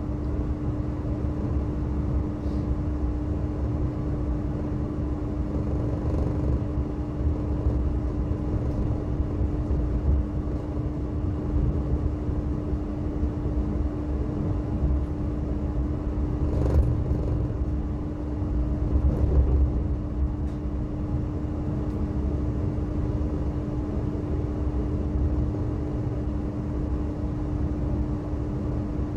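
Electric passenger train running, heard from inside the carriage: a steady low rumble of wheels on rail with a constant hum, and a single sharp knock a little past halfway.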